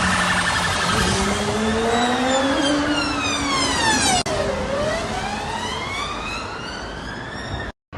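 Emergency-vehicle siren wailing, its pitch sliding slowly down and then back up, over a steady rush of road noise.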